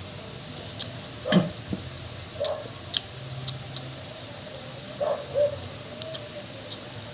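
Eating sounds: a scatter of short clicks and taps, likely a spoon on a plate, with brief chewing and mouth noises at irregular intervals over a low steady hum.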